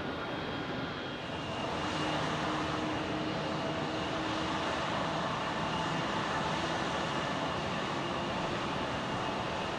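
Jet airliner engines running as a steady rush with faint whining tones on top, swelling slightly in the first couple of seconds and then holding level.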